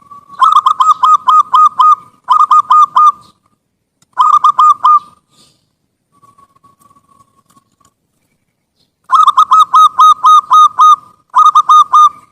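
Zebra dove (perkutut) cooing loudly in repeated phrases of quick, clipped coos, about five notes a second. There are five phrases of three to seven notes with short pauses between them, and a faint, softer stretch of cooing midway.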